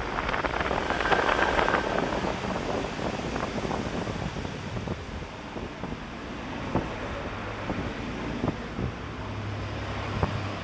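Electric fan running at high speed: a steady rush of air, louder in the first couple of seconds, with scattered light clicks and rattles.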